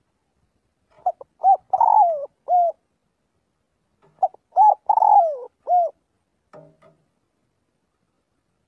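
Spotted dove cooing: two calls about three seconds apart, each a run of short coos with one longer, falling note.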